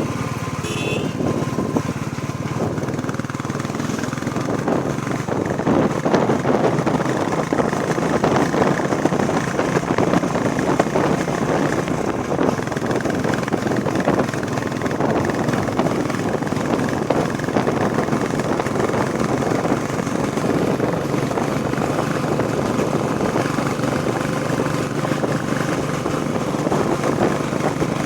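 Royal Enfield Bullet Classic 350's single-cylinder engine running steadily while riding, under a heavy rush of wind and road noise.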